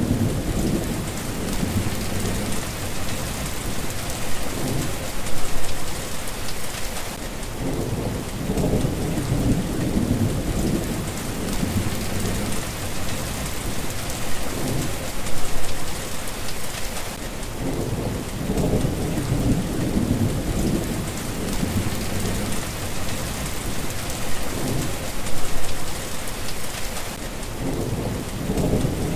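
Steady rain falling, a continuous hiss, with low rolls of thunder swelling and fading several times.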